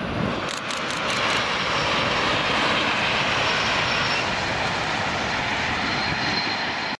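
High-speed electric train passing at speed: a steady loud rush of wheel and air noise that builds in the first second and holds, with a quick run of faint clicks early in the pass.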